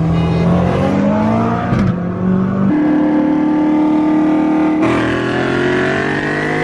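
A car engine accelerating hard, its pitch climbing and then holding. About five seconds in the pitch drops and climbs again, as at an upshift.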